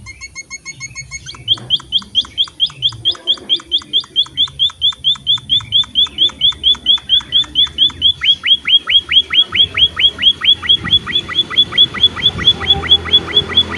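Emprit (small munia finch) calling in a long, rapid run of repeated sharp chirps, about five a second, which turn much louder about a second and a half in.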